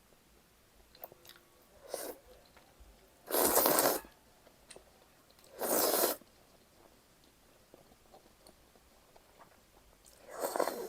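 Crunching bites into a deep-fried breaded pork cutlet (tonkatsu), close to the microphone: three loud crunches of about half a second each, the first the loudest, and a fainter one before them.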